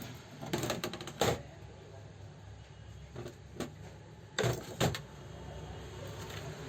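Scattered sharp clicks and knocks of metal parts and tools being handled on an old overlock sewing machine, the loudest a pair about four and a half seconds in, followed by a steady low hum.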